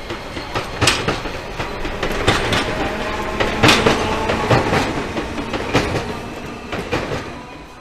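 Enoden electric train passing, its wheels clacking over rail joints and points at an uneven rhythm over a steady running rumble. It is loudest about halfway through, then fades as it moves away.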